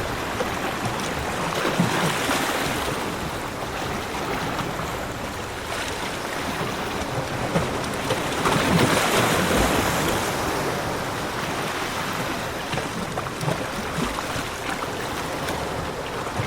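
Ocean waves breaking and washing onto a beach, the surf swelling in two slow surges, the larger one about nine seconds in.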